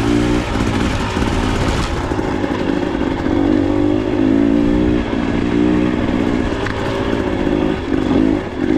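Dirt bike engine running under changing throttle while riding a trail, its pitch rising and falling repeatedly.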